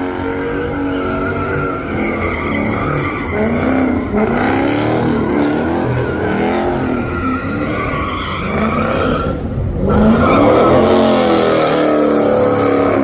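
A car doing donuts, its tyres squealing steadily while the engine revs up and down over and over. It gets louder about ten seconds in.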